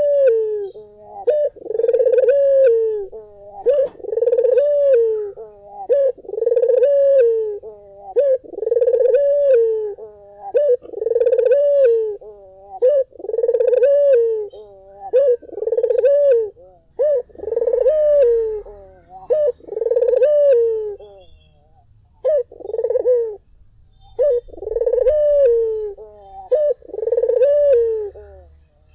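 Puter (domestic ringneck dove) cooing over and over, about one coo a second, each a pitched note that bends up and falls, with a short break about three-quarters of the way through.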